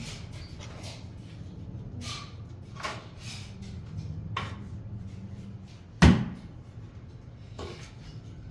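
Scattered short knocks and scrapes of tools and materials being handled during tiling work, over a low steady hum, with one loud sharp knock about six seconds in.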